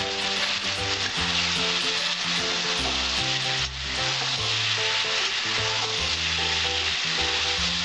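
Chopped vegetables (pumpkin, ridge gourd, potato and Malabar spinach stems) sizzling with a steady hiss in a hot metal kadai as a metal spatula stirs them, dipping briefly a little before midway.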